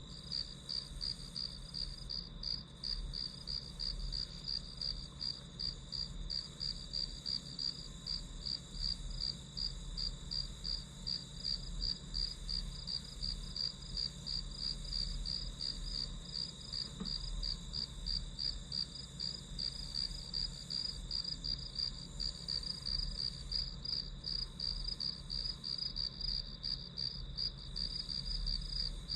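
Crickets chirping steadily: a high, evenly pulsed chirp repeating about two to three times a second without a break.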